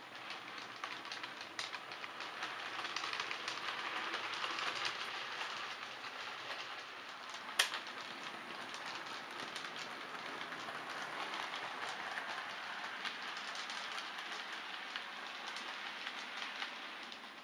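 Model railway train running along the track: a steady whirr of wheels on rail with a rapid patter of small clicks over rail joints. It swells and eases, with one sharp click about seven and a half seconds in.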